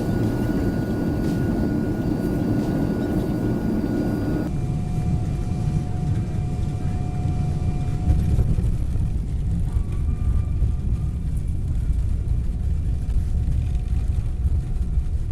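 Steady engine and airflow noise inside the cabin of a Boeing 777-200ER, with a faint whine on top. About four seconds in it changes abruptly to a deeper rumble with the high hiss gone.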